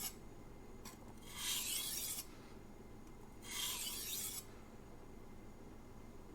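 Knife blade scraping across a Shapton Glass 500 grit whetstone in single edge-leading strokes: the end of one stroke right at the start, then two more about two seconds apart, each just under a second long. These light strokes at a raised angle set a microbevel and take off the last fine burr.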